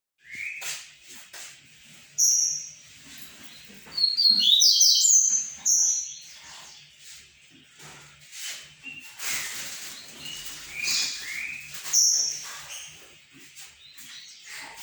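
A male songbird singing in short phrases of high whistled and sliding notes, with the loudest rush of rapid notes about four seconds in.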